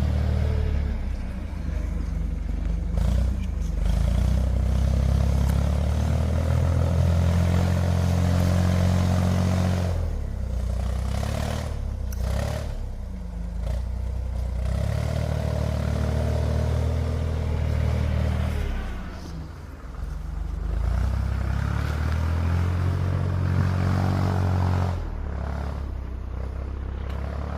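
A motor vehicle engine running steadily, its pitch dropping and climbing again a few times as the revs change.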